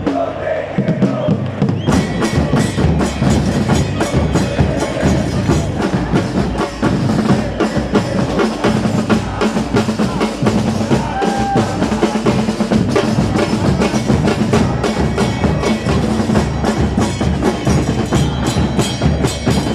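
Football supporters chanting in unison to the steady beat of bass drums and other percussion.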